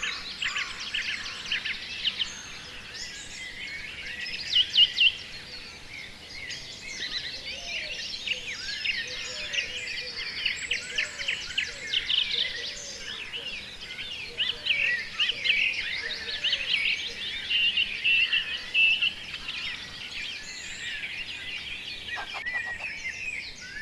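Many birds chirping and calling at once: a dense chorus of quick, high chirps, trills and short sweeping calls, with a few lower calls in the middle.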